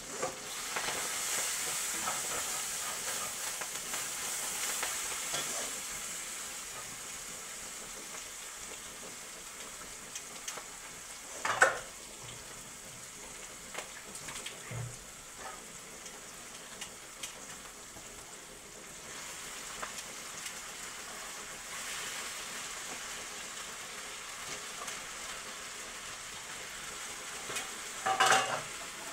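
Vegetables and noodles sizzling in a hot wok while being stirred with a metal spatula, a steady frying hiss that is loudest at first, with scattered scrapes and clicks. The spatula knocks sharply on the pan about a third of the way in, and there is a short clatter near the end as boiled noodles go into the pan.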